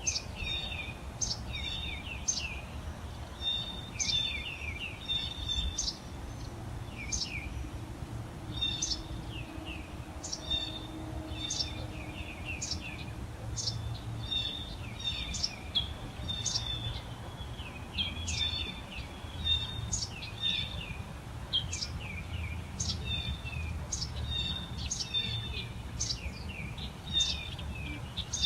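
Birds chirping: many short, high calls follow one another almost without pause, several overlapping at times, over a low steady rumble.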